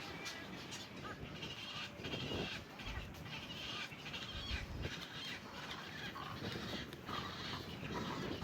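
Birds calling, with many short squawks and clicks overlapping throughout.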